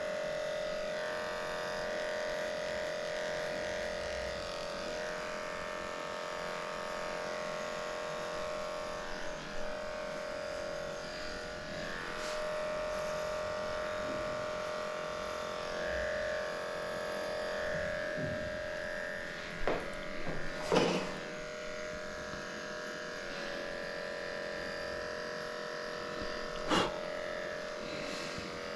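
Electric dog grooming clippers running with a steady buzzing hum while shaving a matted coat, with a few short clicks about two-thirds of the way through and once near the end.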